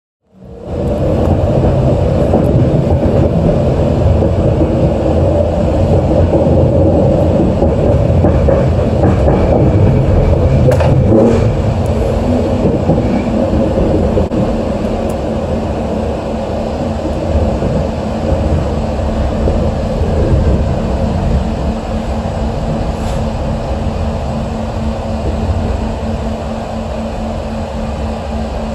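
Expo Line SkyTrain running along the track through the station: a steady low rumble, with a steady hum coming in partway through.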